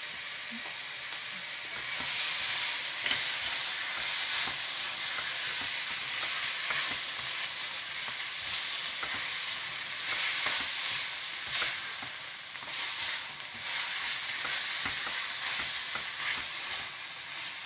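Chicken pieces frying in a blue nonstick pan, sizzling steadily, louder from about two seconds in, with the scrapes and taps of a spatula stirring them.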